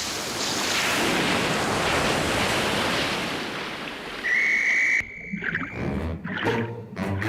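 Cartoon sound effect of rushing, splashing water lasting about four seconds and slowly fading. A brief high whistle tone follows, then music.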